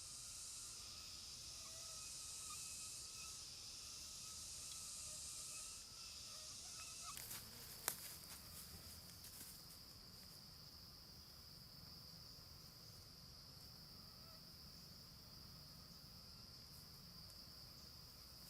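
Insects droning steadily at a high pitch, with one sharp click about eight seconds in and a few faint ticks around it.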